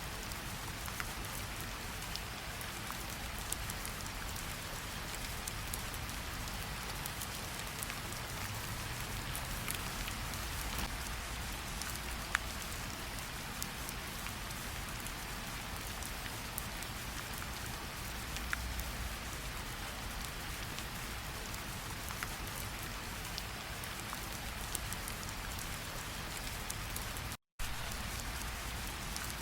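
Steady rainfall, an even hiss with occasional sharper single drops. The sound cuts out completely for a moment near the end.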